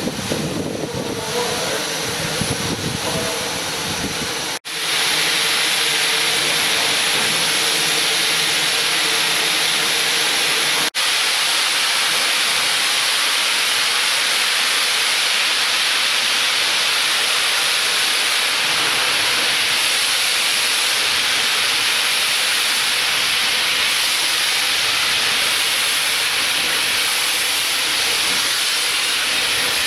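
Steam locomotive letting off steam: a loud, steady hiss. It breaks off for an instant twice, about four and a half and eleven seconds in. Before the first break a lower rumble and faint hum sit under the hiss.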